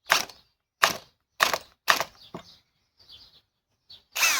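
Ridgid high-torque cordless hammer drill fired in several short, sharp bursts as it stalls, failing to drive a fastener into wood. A last burst near the end falls in pitch. Birds chirp faintly in the background.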